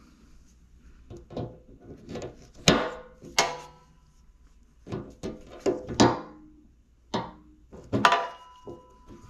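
Irregular knocks and clanks of metal parts and tools being handled while fitting parts back onto a generator. Several of the strikes ring briefly; the loudest come a little under 3 seconds in, about 6 seconds in and about 8 seconds in.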